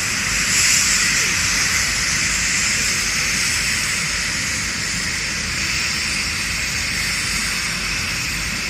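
Steam hissing steadily from a steam engine, swelling briefly about a second in.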